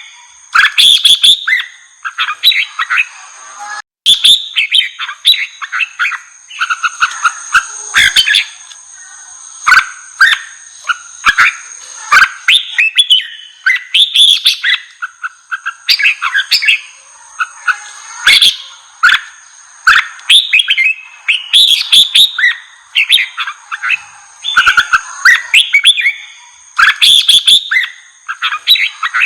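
Red-whiskered bulbuls singing, a rapid string of loud, short chattering phrases one after another, with a brief break about four seconds in. It is fired-up, aggressive bulbul song of the kind played to stimulate young wild-caught bulbuls to sing.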